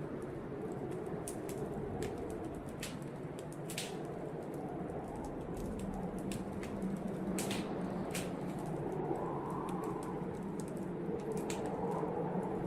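Wood fire crackling in a fireplace, irregular sharp pops and snaps over a steady low rush of wind from a blizzard, which swells gently in pitch.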